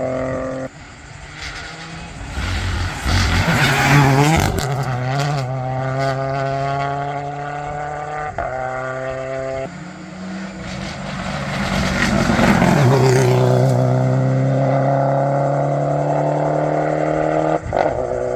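Modern rally car engine at full throttle on a closed stage, revs climbing and dropping at quick upshifts about eight and ten seconds in, then one long climb in a higher gear as it accelerates hard.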